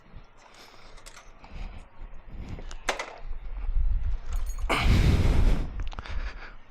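Suzuki DR650's single-cylinder engine thumping through a Lexx slip-on exhaust, getting louder, with a loud rush of noise for about a second around five seconds in.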